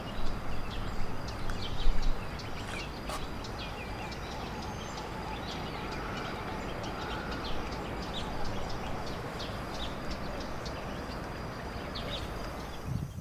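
Wild birds calling: many short chirps and call notes, some in quick runs, over a steady low background rumble and a thin, steady high-pitched whine. The sound cuts off suddenly at the end.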